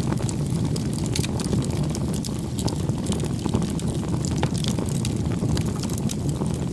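Campfire burning: a steady low rumble of the flames with frequent irregular crackles and pops from the burning wood.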